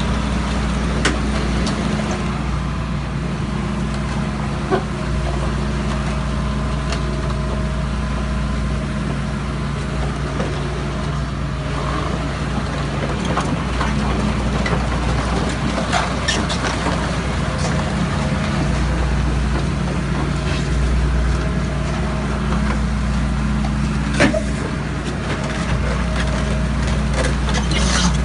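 A heavy diesel engine running steadily, its deep hum swelling and easing every few seconds, with a few sharp metallic knocks, about four of them spread through.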